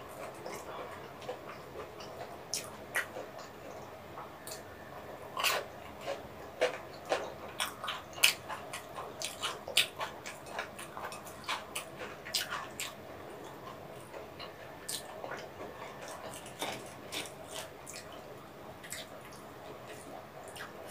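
Close-up chewing and biting of Korean fried twigim: irregular crisp crunching clicks, coming thickest in the middle and thinning out toward the end.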